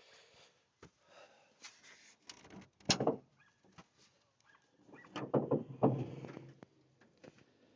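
Metal clunks from a 1996 Ford F-250's door and hood being worked open: one sharp knock about three seconds in, then a loud cluster of clunks and rattles around five to six seconds.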